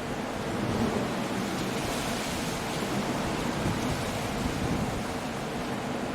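Coastal storm: a steady rush of rain and surf breaking on rocks with wind, swelling somewhat between about one and four seconds in.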